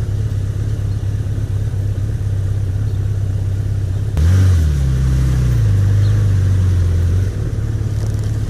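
Motorcycle engine running steadily under way. About four seconds in it gets louder, the pitch jumping up and then falling for a second or two before settling, and it eases back near the end.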